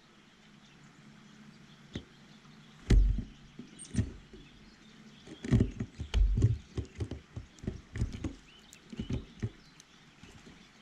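Irregular taps and thumps close to the microphone, typical of small birds landing, hopping and pecking at a bird feeder beside the camera, with a brief faint chirp about four seconds in.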